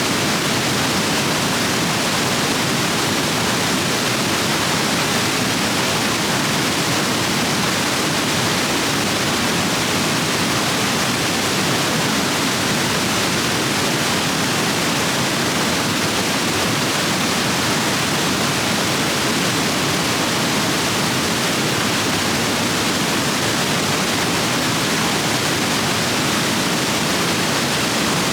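Rapids running full after heavy rain: a steady, loud rush of water with constant hiss.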